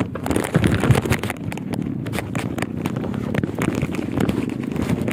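A vehicle moving over rough ground: a steady rumble with many sharp clicks, crackles and rattles.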